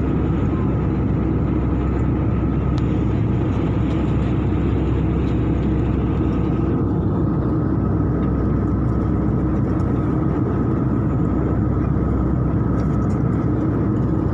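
Steady drone of an airliner's cabin in flight: engine and airflow noise, heavy in the low end with a faint steady tone above. About seven seconds in, the higher hiss drops away while the low drone continues.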